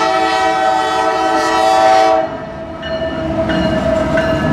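Locomotive air horn sounding a loud, steady chord that cuts off about two seconds in, then sounding again more faintly near the end, over the rumble of the passing freight train.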